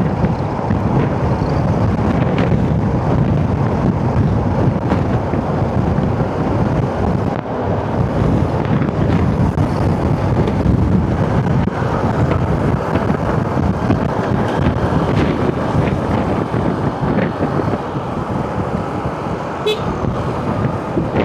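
A motorcycle riding along a rough, potholed road in traffic: the engine runs under steady wind buffeting on the microphone, with passing vehicles around it.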